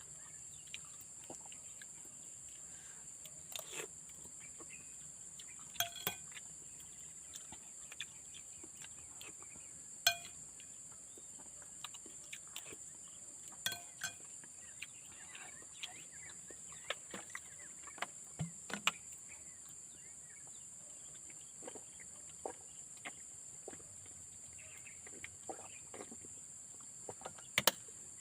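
Cutlery clinking and scraping against a dish as someone eats, in scattered light clicks, a few of which ring briefly. Behind them a steady, high-pitched insect chorus.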